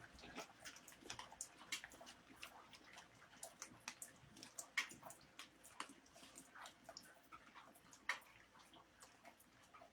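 Paintbrush applying a second coat of enamel paint to a tabletop: faint, irregular small clicks and taps as the brush works.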